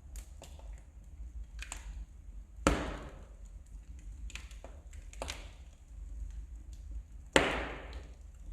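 Wood fire in a fireplace crackling, with scattered small snaps and two loud pops, one about three seconds in and one near the end.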